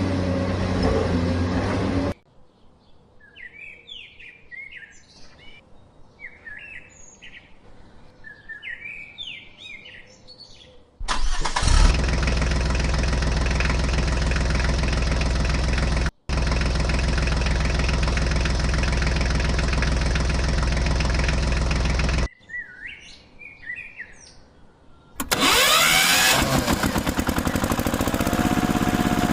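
Birds chirping alternating with stretches of a steady, loud engine running, each starting and stopping abruptly as if cut together; near the end the engine sound rises and falls in pitch.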